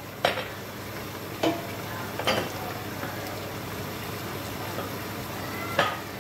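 Goat meat, onions and chopped tomatoes sizzling steadily in an enamelled pot, with four sharp knocks of utensils against the pot, the last ringing briefly.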